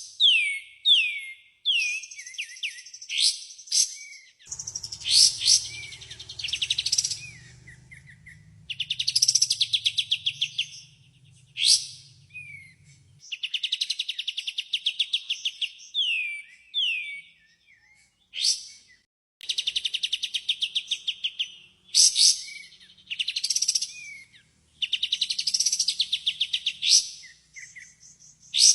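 Kapas tembak bird singing a lure song in repeated phrases: fast chattering trills mixed with quick whistles that slide downward. A faint low hum runs under the first part.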